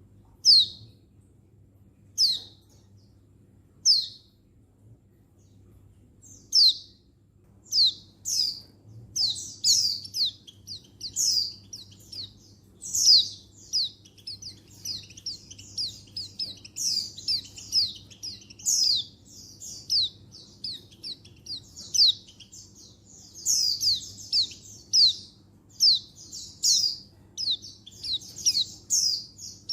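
Pleci (white-eye) calls, which the title gives as a female calling to a male: short, sharp, high chirps that slur downward. They come singly about every second or two at first, then from about eight seconds in they run into a dense, overlapping stream.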